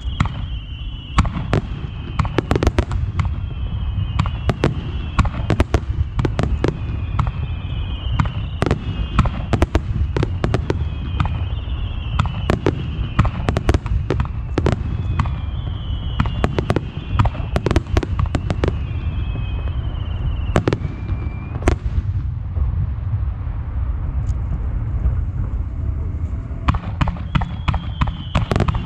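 Starmine fireworks barrage: rapid shell bursts and cracks over a continuous low rumble, with repeated falling whistles through the first two-thirds. The whistles stop about 21 s in and the bursts thin out, then build again near the end.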